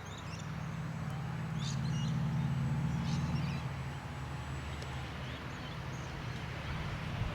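Wind rumbling on the microphone, louder for a couple of seconds about a second in, with the faint thin whine of the RC plane's electric motor on its landing approach and a few short bird chirps.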